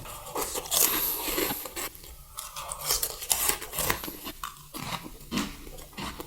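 Close-miked crunchy biting and chewing of food, a run of uneven crackling crunches.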